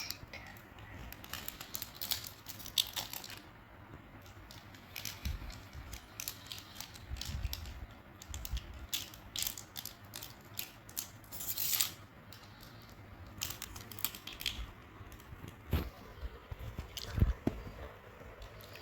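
Chocolate wrappers crinkling and rustling in scattered, irregular bursts, with small clicks and taps as the wrapped chocolates are handled.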